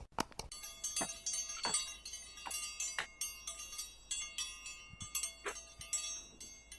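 Chime-like metallic tinkling: many light strikes over ringing tones that hang on throughout.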